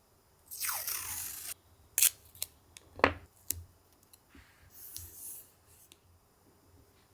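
Close-up handling sounds: a second-long rustle, then several sharp clicks and snips, then a softer rustle.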